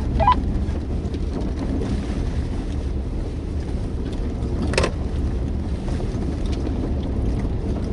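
Steady rumble of a Jeep on the move, engine and tyre noise heard from inside the cabin, with a short sharp click about five seconds in.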